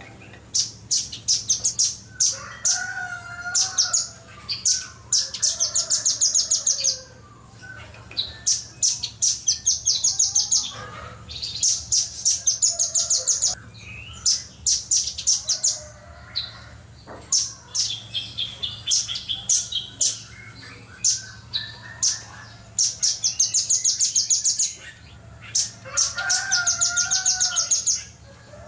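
Velvet-fronted nuthatch (rambatan paruh merah) singing in fast, rapid-fire trills of sharp, high notes, in bursts of one to two seconds with short pauses between. A lower, wavering call sounds briefly twice, about two seconds in and near the end.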